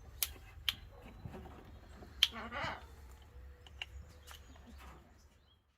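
A few sharp clicks, the loudest about two seconds in and followed by a brief rustle, over a quiet background; it goes almost silent just before the end.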